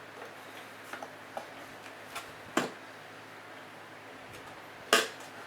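Scattered light clicks and knocks from hands working at a sealed surplus ammunition spam can, with a sharper knock about halfway through and the loudest knock near the end.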